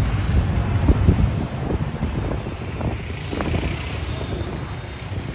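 Street traffic: motor vehicles running past with a low rumble, loudest about a second in and easing off toward the end.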